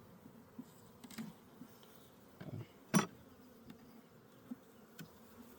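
Honeybees buzzing around an opened hive, a faint steady hum, with a sharp knock about three seconds in.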